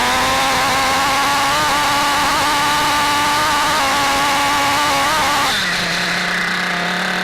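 Kyosho FO-XX GP RC car's small glow (nitro) engine running at high revs with a buzzy, steady pitch, easing off to a lower pitch about five and a half seconds in, then revving up again at the end.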